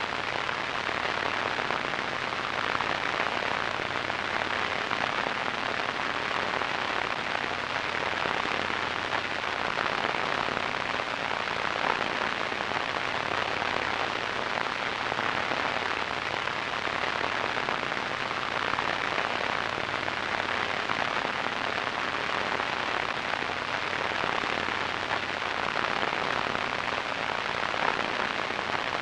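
Radio static: a steady, even hiss that does not change, strongest in the middle range, with little low end or top end.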